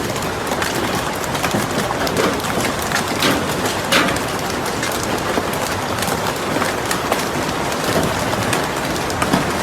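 Hailstones pelting down: a dense, steady clatter of many impacts, with sharper single hits standing out here and there.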